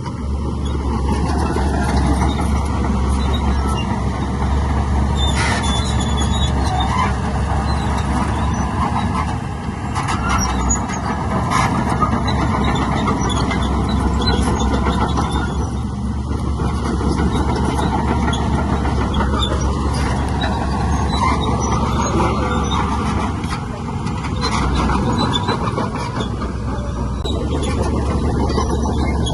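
Diesel engines of heavy earthmoving machinery running steadily under load, with a few short metallic clanks.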